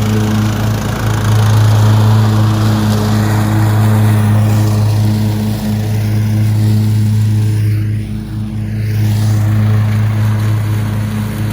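Lawn mower engine running steadily under mowing, its cutting blades engaged, with one even low hum. The level dips briefly about eight seconds in, then returns.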